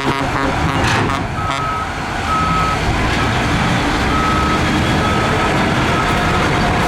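Heavy diesel earthmoving machinery running, with a reversing alarm beeping about once a second from about a second and a half in. A few sharp clanks near the start.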